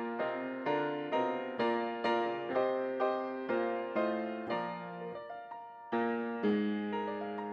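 Solo piano playing the church offertory: slow, gentle chords struck about twice a second, each ringing away, with a brief lull about five and a half seconds in before the next phrase.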